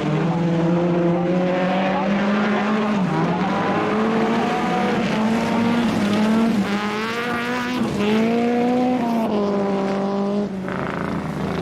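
Rally car engine under hard acceleration, its pitch climbing and then dropping sharply with quick gear changes about three, six and a half and eight seconds in. The engine backs off near the end.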